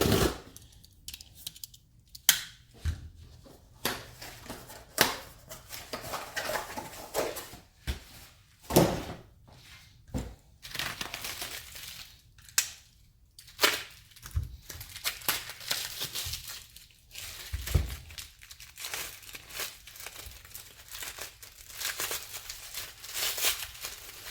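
Packaging being crinkled and torn open by hand as parts are unwrapped: irregular rustling and crackling, with a few sharp knocks as pieces are handled.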